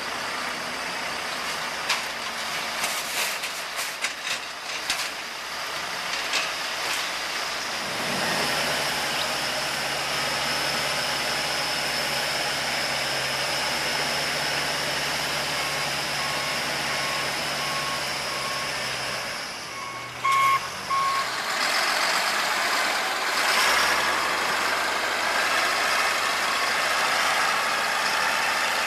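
Heavy trucks and paving machinery running at a road repair site, with scattered knocks in the first several seconds. A steady engine hum sets in after that. A reversing alarm beeps evenly for several seconds a little past halfway.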